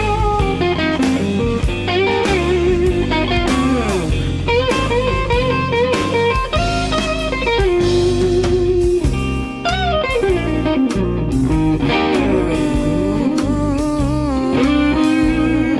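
Blues-rock band playing an instrumental break. An electric lead guitar plays sustained, bent and wavering notes over bass and drums.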